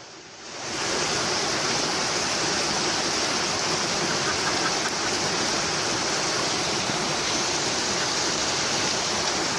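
Steady rush of flowing water from the stream at a natural rock water slide, fading in over the first second.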